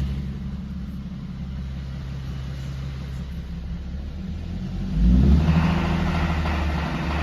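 Infiniti G37 coupe's 3.7-litre V6 running at a steady low speed, then pulling harder with a jump in loudness about five seconds in. This is the load range, about 1500 to 2000 rpm, where the owner hears a knocking, pinging noise.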